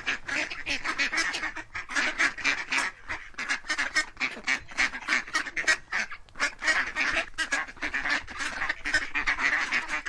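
Flock of domestic waterfowl calling without pause, many short calls a second overlapping.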